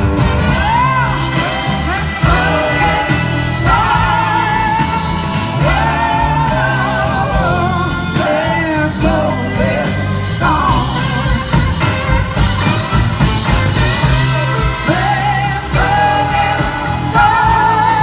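Live soul-rock band playing, with a steady bass and drum groove under gliding, bending melody lines and singing.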